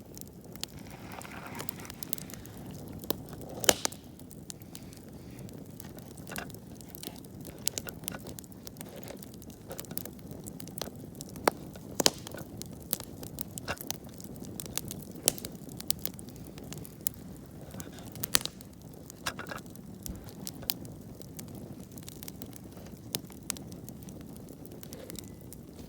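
Wood campfire burning: irregular sharp crackles and pops, a few of them louder, over the steady low rush of the flames.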